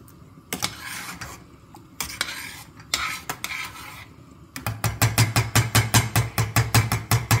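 A spoon stirring and scraping a pot of thick tomato sauce in a few short strokes. Then, from a little past halfway, a fast even clinking of the utensil against the pot, about five knocks a second, over a low hum.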